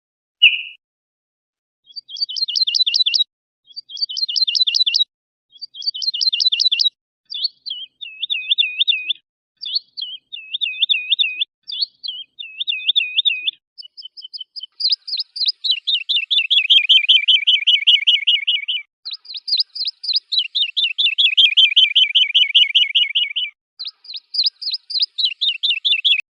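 Recorded songbird song in distinct phrases with clean silence between them: short repeated trills, then a run of looping whistled notes, then two long, rapid trills that fall in pitch, then short trills again near the end.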